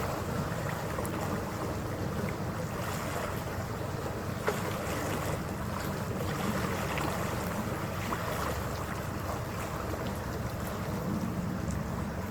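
Passenger ferry under way: a steady low engine drone and water rushing along the hull, with wind on the microphone. A single faint click about four and a half seconds in.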